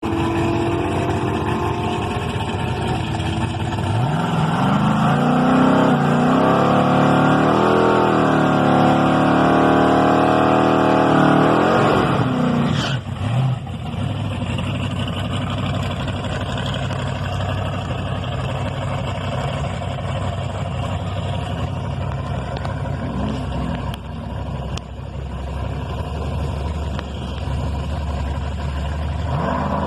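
Muscle car engine revving hard. Its pitch climbs about four seconds in, holds high and wavers, then falls away sharply after about twelve seconds into a steady rumble.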